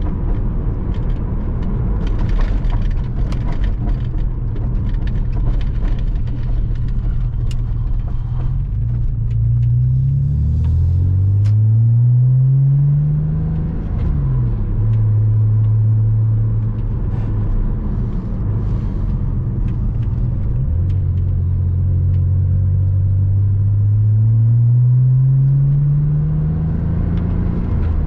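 Porsche Boxster 986's flat-six engine pulling along the road, with tyre and road rumble. The revs climb through two gears about a third of the way in, fall back and hold steady, then climb slowly again and drop at a gear change near the end.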